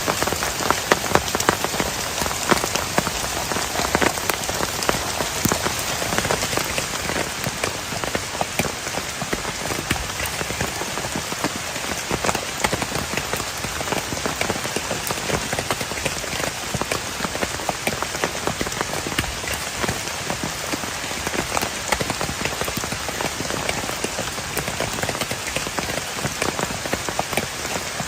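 Heavy rain falling steadily, with a constant hiss full of sharp individual drop hits on a nearby surface.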